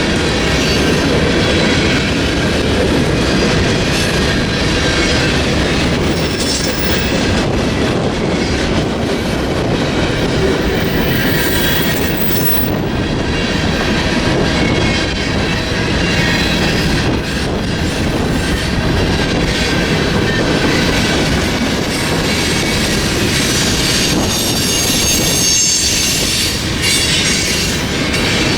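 Freight train cars rolling past at a steady, loud level, the steel wheels rumbling and clattering on the rails, with some higher-pitched wheel noise toward the end.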